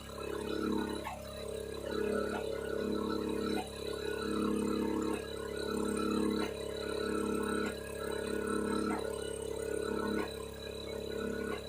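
Pressure washer running while foam is sprayed from its foam cannon, a steady droning motor that swells and eases every second or so.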